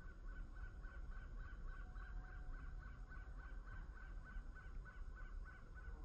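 A bird calling a long, even series of short nasal notes, about four a second.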